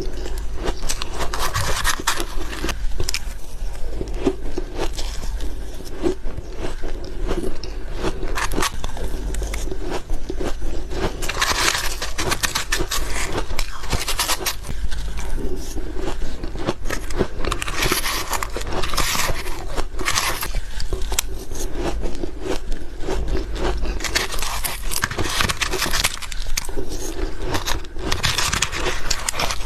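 Powdery ice and ice blocks being bitten and chewed close to the microphone: a dense, continuous crackle of crisp crunches, with louder bites every second or two.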